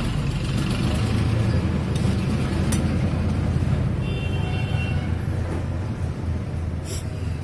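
Steady low engine rumble, with a sharp click partway through and another near the end.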